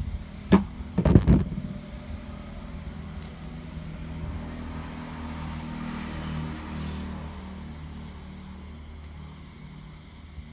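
A sharp bang about half a second in and a louder clatter of knocks about a second in, over a steady low engine rumble that swells a little midway and then slowly fades.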